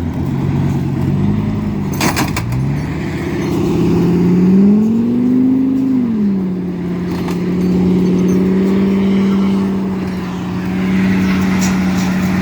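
Vehicle engine working under load on a snowy road: it wavers, revs up about four seconds in, drops back near six seconds and then holds a steady drone. There is a short clatter about two seconds in.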